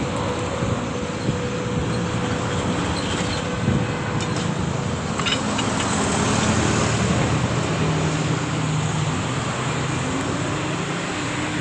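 A motor vehicle engine running amid steady traffic noise, its pitch shifting and strengthening about halfway through.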